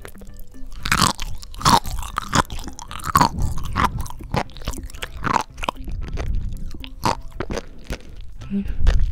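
Close-miked chewing of a mouthful of sea grapes (umibudo seaweed), the small bead-like fronds popping and crunching between the teeth in a series of sharp pops.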